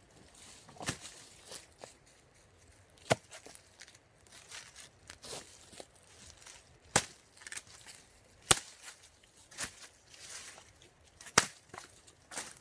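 Sharp wooden cracks at uneven intervals, about seven of them one to two seconds apart, with soft rustling between: firewood being chopped for a campfire.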